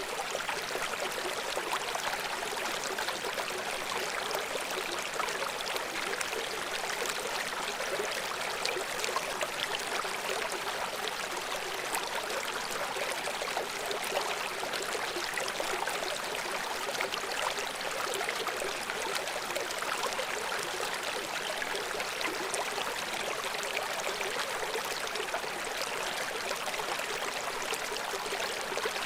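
River water flowing: a steady, even rushing with many fine splashes and no pauses.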